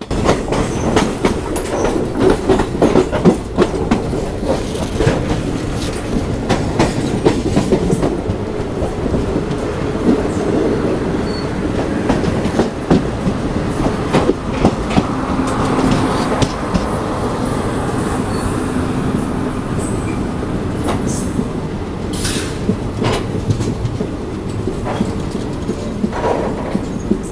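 Coromandel Express running on the rails, heard from on board: a continuous steady rumble with rapid clickety-clack of the wheels over rail joints and pointwork at the approach to Gudur Junction. A few brief high wheel squeals come in the second half.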